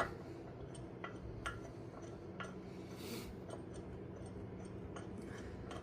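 Scattered light metallic clicks and taps from bolts being fitted into threaded holes by hand, about one or two a second, with a short hiss about three seconds in, over a steady low hum.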